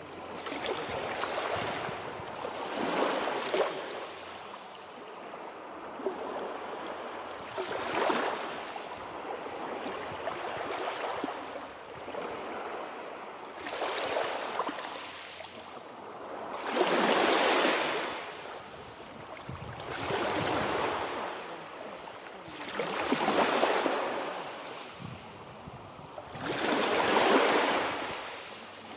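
Sea waves breaking and washing in. Each wave is a rush of noise that swells and fades, coming every three to six seconds, and the strongest ones fall past the middle and near the end.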